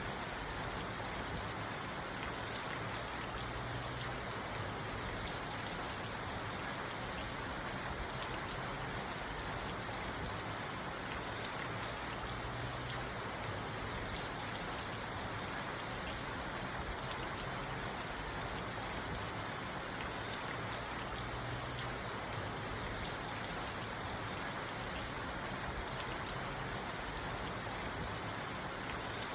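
Steady rain falling on a car's roof and windows, heard from inside the car as an even hiss with fine scattered drop ticks. A faint low rumble swells and fades every several seconds.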